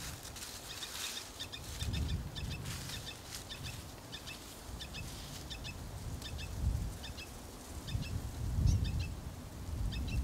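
A small bird chirping over and over in short, quick pairs and triplets of high notes. Gusts of wind rumble on the microphone now and then; they are the loudest sound, about two, seven and nine seconds in.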